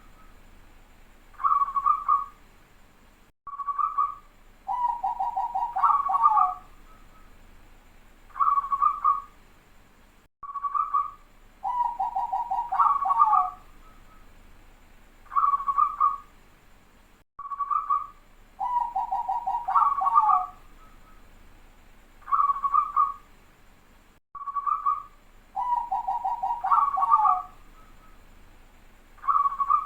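Zebra dove (perkutut) cooing: a phrase ending in a long rolling, trilled coo repeats about every seven seconds, with short single coos between.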